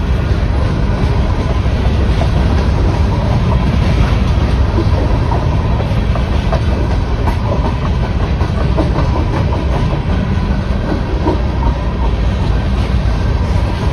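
Freight train's open-top hopper cars rolling past a grade crossing: a loud, steady rumble and rattle of steel wheels on the rails, unbroken throughout.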